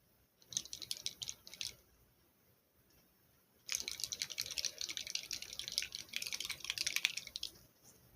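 Water sloshing inside a capped plastic Barbie Color Reveal tube as it is shaken to bring out the doll's colour: a short spell of shaking about half a second in, then a longer, louder spell of rapid shaking from a little past the middle until near the end.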